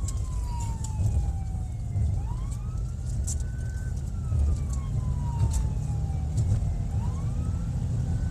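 Police siren on a slow wail, rising over about two seconds and falling over about three, going through roughly two cycles, over a steady low rumble.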